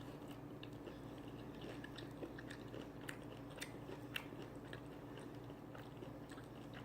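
Quiet close-up chewing of crispy oven-baked chicken wings: faint, irregular small crunches and mouth clicks over a low steady hum.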